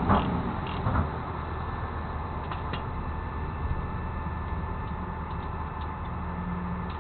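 Truck engine running steadily, a low drone, with two knocks in the first second.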